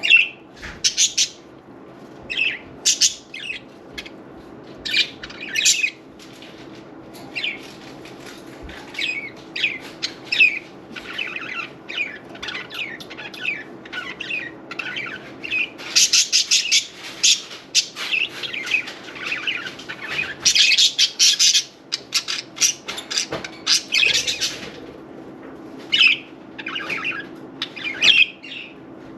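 Budgerigars chirping and chattering in quick short calls, with denser bursts of fluttering and splashing about halfway through and again a little later. A faint steady low hum runs underneath.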